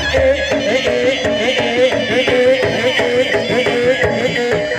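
Slompret, the Javanese double-reed shawm, playing a wavering, ornamented melody over kendang-style drumming in jaranan music.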